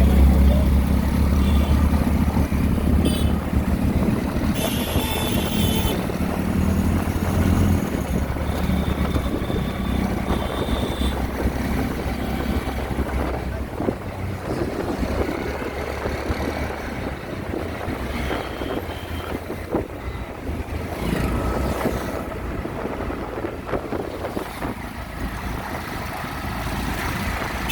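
Auto-rickshaw engine running with street traffic around it. The low engine rumble is heaviest for the first several seconds, then eases. A few short, high, steady tones sound now and then over the traffic.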